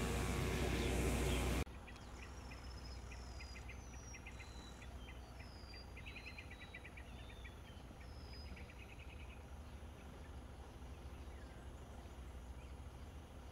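A loud continuous sound with a low hum cuts off abruptly about a second and a half in. Birds then call against quiet background noise: quick series of short trilled chirps, with several thin, high, falling whistles over them, fading out after about nine seconds.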